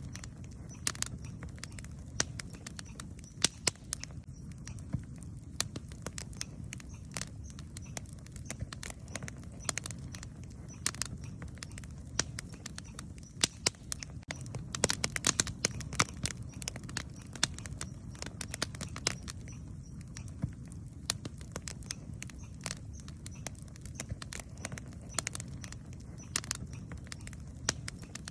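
Wood campfire crackling, with frequent sharp pops and snaps over a steady low rumble. A denser run of louder pops comes about halfway through.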